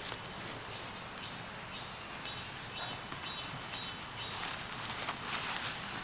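Outdoor summer ambience: a short high chirp repeating about three times a second and a steady thin high buzz coming in about two seconds in, over an even hiss, with a couple of brief rustles near the end.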